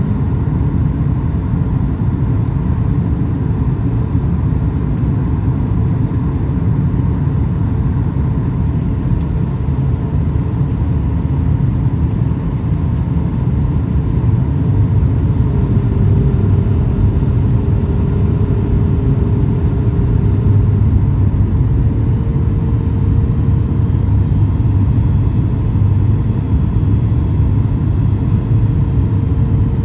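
Inside the cabin of a Boeing 737 MAX 8 in flight: a steady, loud low rumble of its CFM LEAP-1B engines and the airflow. A faint hum within it shifts slightly higher in pitch about two-thirds of the way through.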